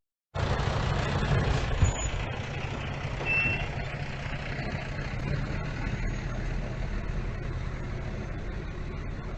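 Heavy dump truck's diesel engine running steadily, with a short high beep about three seconds in.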